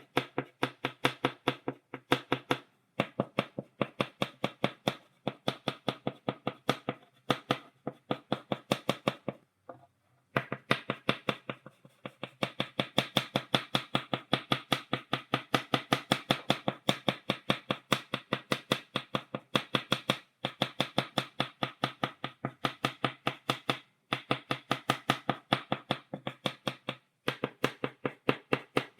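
Chalk tapped against a blackboard, dotting in quick, even taps of about four a second, in runs broken by short pauses, with a longer pause about ten seconds in.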